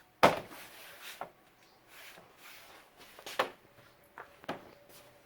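A few sharp knocks and clicks of hard parts being handled, the loudest just after the start and others spread through the rest, with quieter rubbing between them.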